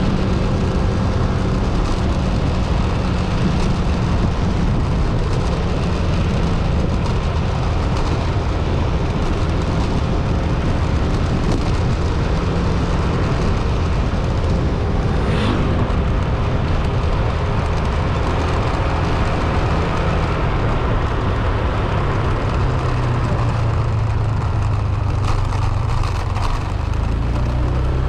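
A car's engine and road noise heard while driving, steady throughout, with the engine note moving to a lower pitch about 22 seconds in.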